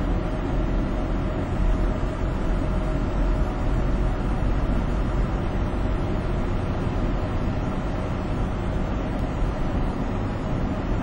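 Highway traffic noise heard from a moving vehicle among heavy trucks: a continuous low rumble of engines and tyres, steady throughout.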